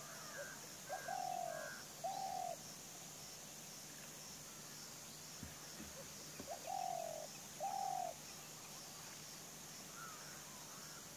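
Bird calls: a pair of short, slightly falling calls, then the same pair again about five seconds later, with fainter higher chirps near the start and near the end.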